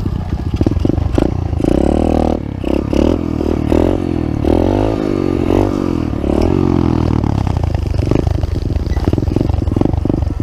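Pit bike engine running and revving up and down several times in quick succession, then settling to a steadier run near the end.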